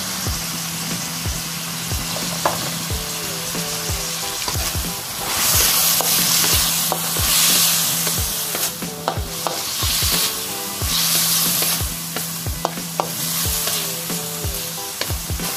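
Chicken pieces with onion, garlic and ginger sizzling in hot oil in a wok while a wooden spatula stirs and scrapes them around the pan. The sizzle swells louder in waves as the meat is turned, with a few sharp clicks of the spatula against the wok.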